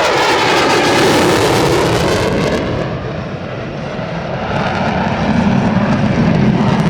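F-15E Strike Eagle's twin turbofan jet engines roaring as the jet makes a fast low pass: a loud roar with a falling pitch, its high hiss dropping away about two and a half seconds in, then a deep rumble building as the jet goes away.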